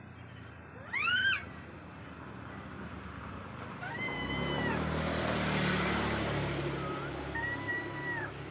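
A cat meowing three times: a short rising meow about a second in, then two longer, level meows about three seconds apart. Under the later two, a rushing noise swells and fades.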